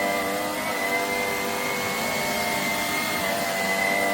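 A Shark cordless stick vacuum running steadily while vacuuming, with a high steady whine over its motor hum.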